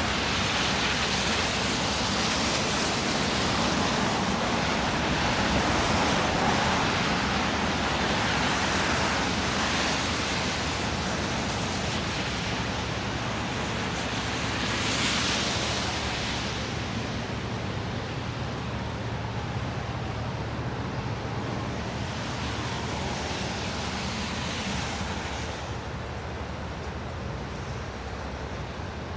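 Steady hiss of city traffic on wet, snowy roads, with tyres swishing louder as vehicles pass every few seconds over a low engine rumble.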